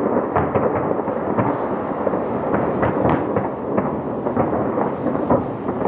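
Dense barrage of aerial firework shells bursting in rapid succession. Many sharp reports overlap into a continuous rumble.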